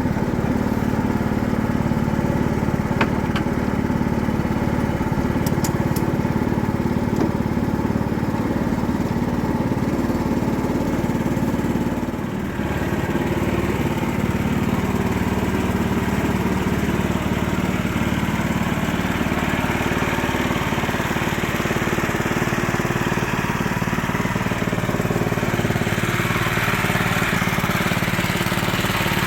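A small engine running steadily, with a brief dip in level about twelve seconds in.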